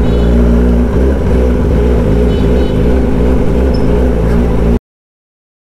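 Kawasaki ZX-10R's inline-four running through an SC-Project exhaust while riding, its revs rising and falling. The sound cuts off abruptly near the end, leaving about a second of silence.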